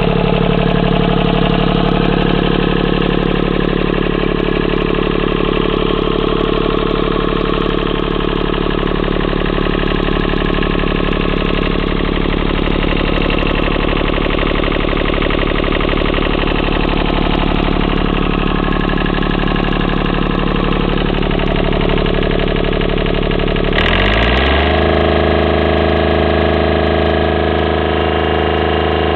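Deutz three-cylinder diesel engine running steadily just after starting. About 24 seconds in its note shifts briefly, then it settles into a steady run again.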